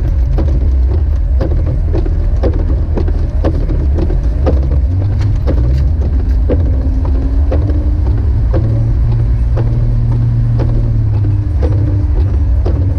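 Jeep Wrangler YJ driving on snowy roads: a steady, heavy low rumble of engine and tyres, with sharp clicks repeating about twice a second.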